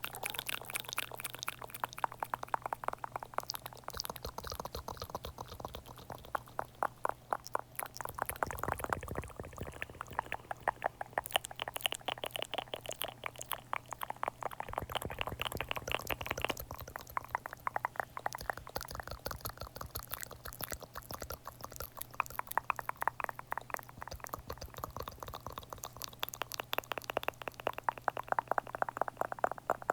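Close-up ASMR mouth sounds: rapid wet clicks and smacks, many a second, running on without a break.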